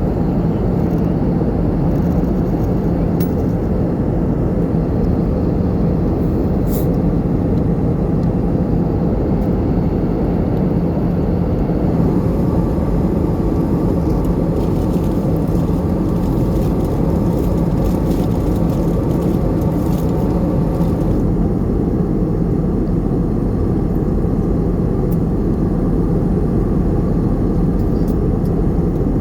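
Steady cabin noise of an Airbus A320 in flight: a constant roar of the engines and rushing air, with a low hum under it.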